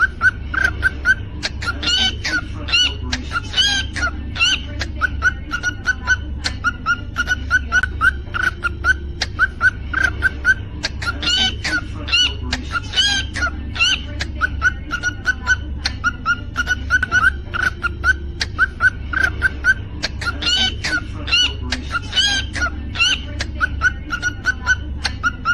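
Cockatiel whistling and chirping: a steady stream of short chirps, broken every several seconds by a burst of rising whistled notes, over a low steady hum.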